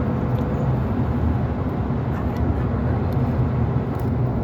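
Steady low rumble of a train running, with a faint hum of machinery under it and no change in level.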